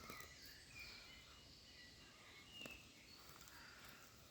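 Near silence: faint woodland ambience with a few faint bird chirps and a couple of soft clicks, one at the start and one past halfway.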